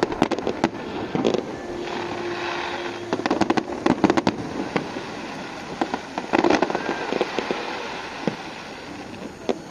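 Aerial fireworks going off in volleys of sharp bangs, with crackling between them; the densest clusters come about 3 to 4 seconds in and again near 6 seconds.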